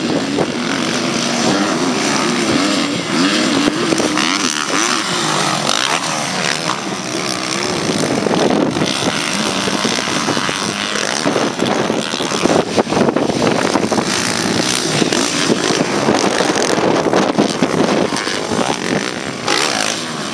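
Open-class motocross bikes racing, their engines revving up and down over and over as the riders work the throttle.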